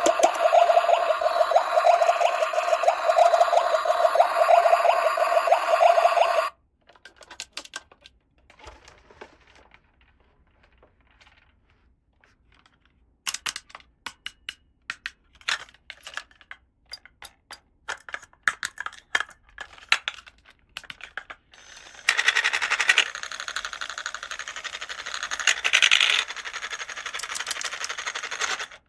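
Small plastic toy pieces clicking and tapping as they are handled, after a loud dense sound that cuts off abruptly about six seconds in. A louder stretch of dense rustling starts about two-thirds of the way through.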